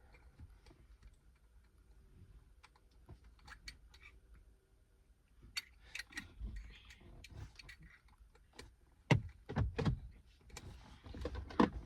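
Scattered small clicks and rustles of objects being handled, with a few dull thumps about nine to ten seconds in and a louder rustle at the end.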